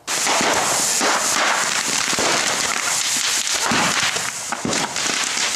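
Firecrackers packed into a pile of dry Christmas trees going off in a dense, continuous crackle of many rapid pops.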